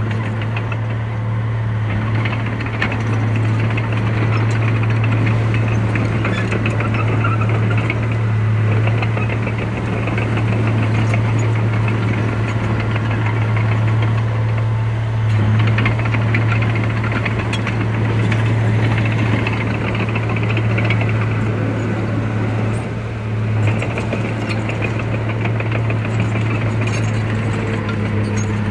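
Heavy diesel engine of earthmoving machinery running steadily with a low hum and a continuous knocking clatter, swelling slightly now and then.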